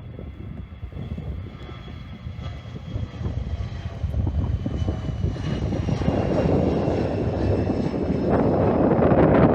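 Airliner approaching, its engines rumbling with a faint high whine and growing steadily louder, loudest near the end.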